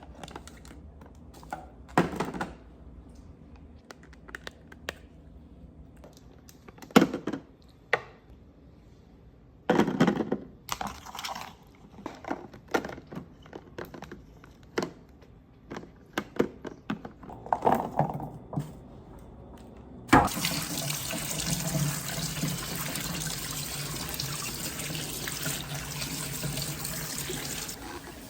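Scattered knocks and clatter of things being handled, then a kitchen tap turned on, running steadily into a sink for several seconds before it is shut off near the end.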